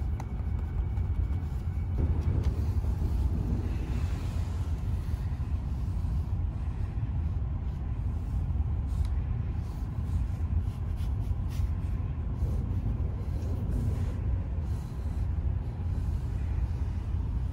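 Steady low rumble of a Shinkansen bullet train running, heard inside the passenger cabin, with a few faint clicks.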